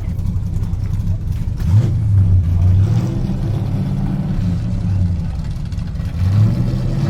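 Truck engine running with a low steady note that rises in two short revs, about two seconds in and again near the end.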